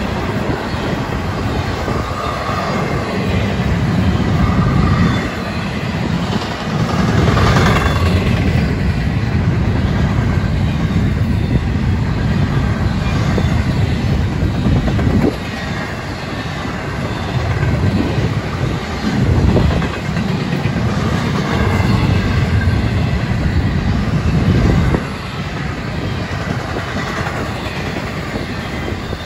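Union Pacific freight train's double-stack well cars rolling past: a heavy, continuous rumble of steel wheels on rail that swells and dips as the cars go by.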